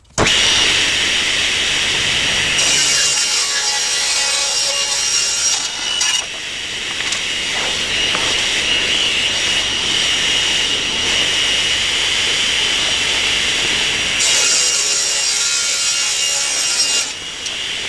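Table saw running with a steady high whine while its blade rips a hardwood board lengthwise along the rip fence. The cutting turns harsher and brighter twice, for a few seconds each, a little after the start and again near the end.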